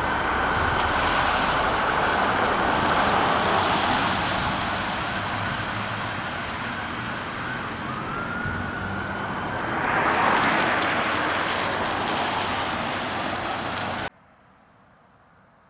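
Emergency vehicle siren sounding loudly along with vehicle and road noise, with a brief rising wail partway through and a loud swell after it. The sound cuts off suddenly near the end, leaving only faint background.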